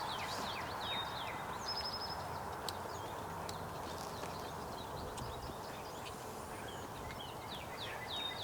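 Songbirds singing: bursts of quick downward-sliding chirps, each ending in a short even trill, heard twice, near the start and again near the end, over a steady hiss of woodland background.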